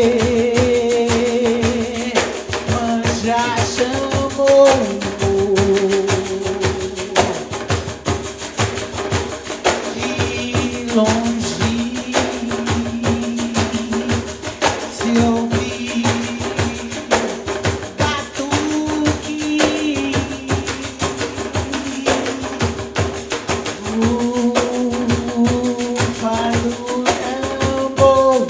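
Live music: a group of pandeiros (Brazilian frame drums with jingles) playing a steady, dense rhythm under long held sung notes.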